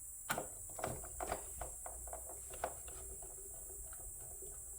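Small screwdriver driving a small screw to fix a micro switch in place inside an espresso machine: a few light, irregular clicks and ticks in the first couple of seconds, then only faint background.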